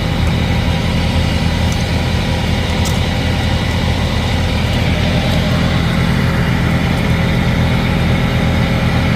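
Heavy truck engine idling steadily with a low, even drone.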